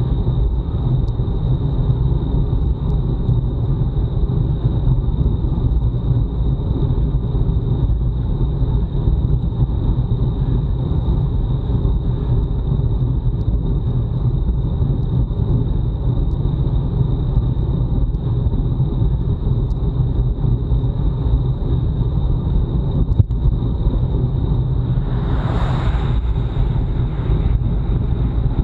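Steady low rumble of wind buffeting the microphone and tyre noise from a road bike ridden fast, with a thin steady high whine all through. A brief, brighter whoosh about 25 seconds in.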